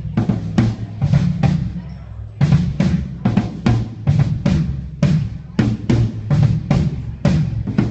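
Drum kit played in a steady beat during a soundcheck, with kick and snare strikes about two to three a second and a short break about two seconds in.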